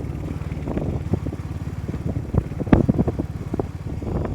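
Motorcycle engine running steadily while riding, with wind buffeting the microphone in short gusts.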